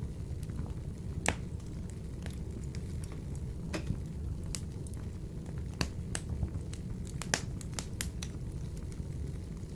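Wood fire burning in a wood-burning stove: a steady low rumble of flames with scattered sharp crackles and pops, the sharpest about a second in and again around six and seven seconds in.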